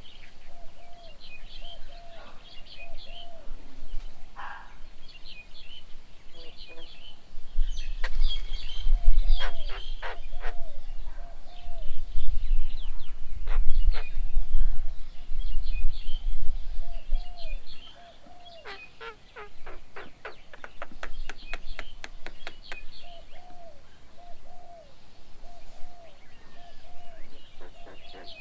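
Several birds calling at a garden bird table: one bird repeats a short, low note about twice a second, while others give high chirps and two fast runs of sharp, clicking notes. A deep rumble sets in about a third of the way through and stops about two-thirds of the way through.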